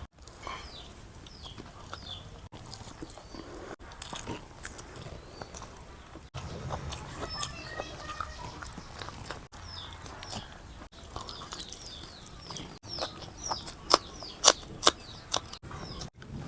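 Close-miked eating sounds: chewing and crunchy bites of food. They come as several short spliced clips, with the sharpest, loudest crunches about two-thirds of the way through.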